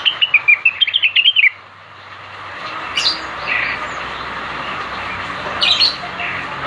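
Greater green leafbird (cucak wilis) singing: a quick run of chirping notes that falls in pitch over the first second and a half, then short single calls about three seconds in and again near six seconds, over a steady background hiss.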